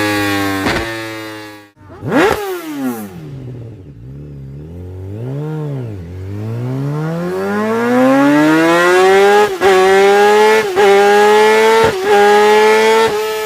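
Superbike engine revving: it holds high revs, cuts off about a second and a half in, then gives a sharp blip. It wavers up and down at low revs before climbing steadily in pitch through the second half, broken four times by brief cuts.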